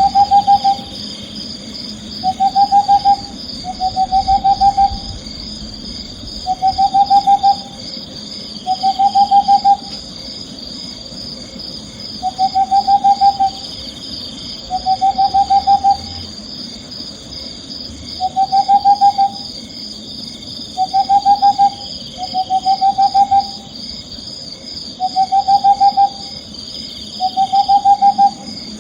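An owl calling: short trilled hoots, each a quick run of pulses rising slightly in pitch, about a dozen of them spaced two to three seconds apart, over a steady high chirring background.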